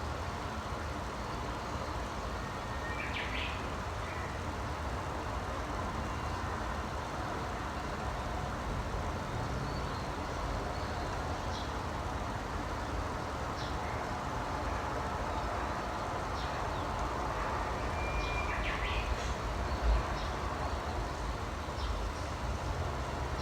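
A few short, sparse bird chirps over a steady low background rumble, with a brief low thump about twenty seconds in.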